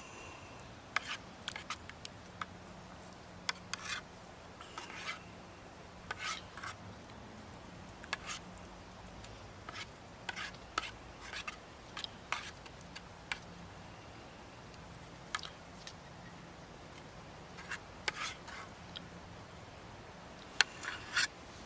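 A utensil stirring and scraping in a metal canteen cup of cooking pasta, giving faint, irregular clinks and scrapes about once a second.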